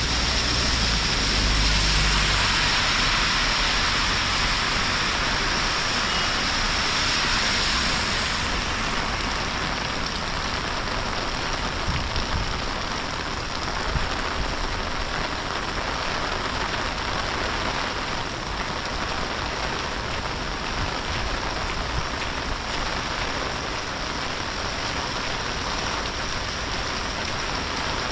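Steady rain falling. The rush is strongest for the first eight seconds or so, then evens out, with a few faint knocks near the middle.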